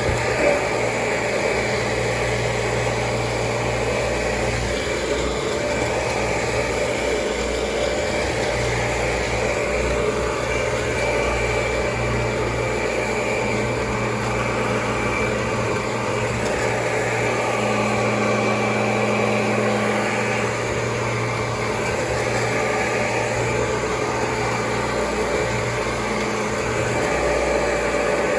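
Kirby G4 upright vacuum cleaner running steadily: a constant motor hum with a thin, high, steady whine over it.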